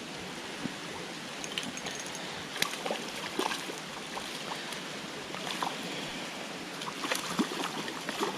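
Creek water running steadily, with rain falling and scattered small ticks.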